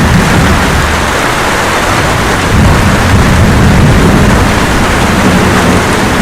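Steady light rain with thunder rumbling low underneath, swelling about two and a half seconds in and easing off near the end.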